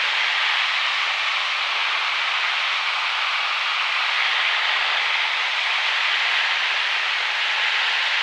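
Steady cabin noise of a Grumman single-engine light airplane in cruise on approach: engine and airflow as an even, unchanging hiss with no distinct engine tone.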